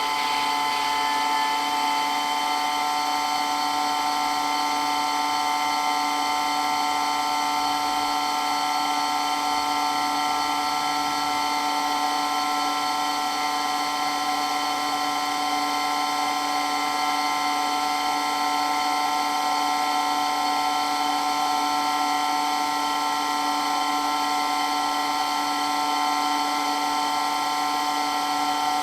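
Water pump for water blasting running continuously with a steady whine made of several constant tones, unchanging in pitch and level.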